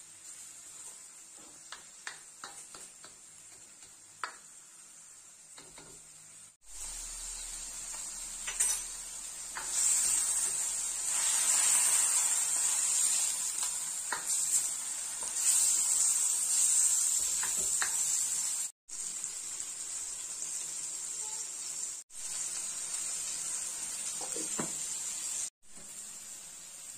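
Chicken pieces frying in oil in a stainless steel wok, sizzling, with a plastic spatula scraping and stirring now and then. The sizzle is quieter with a few clicks at first, grows loud in the middle, and is cut off abruptly several times.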